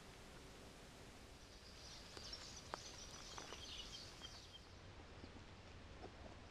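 Quiet outdoor ambience with a small bird twittering in high chirps for about three seconds in the middle, and a faint tick or two among them.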